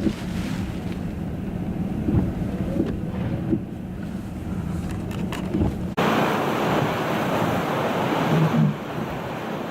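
Vehicle running in a blizzard, a low rumble with a steady hum and a few low thumps. About six seconds in it gives way suddenly to loud rushing wind noise on the microphone.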